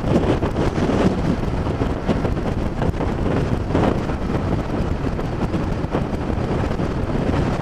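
Steady wind noise buffeting the microphone of a moving motorcycle, with engine and road noise underneath.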